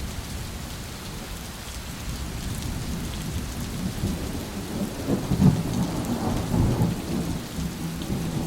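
Steady heavy rain hissing, with a roll of thunder rumbling low that builds from about halfway through and peaks a little later before easing.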